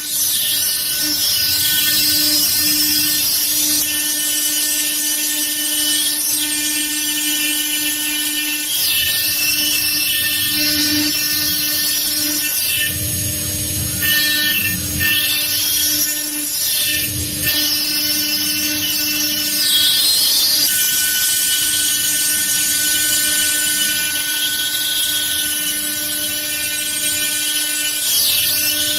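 CNC stone-carving machine's high-speed spindle whining steadily as its bit cuts into stone, with a harsh grinding hiss and a few brief changes in pitch and load partway through.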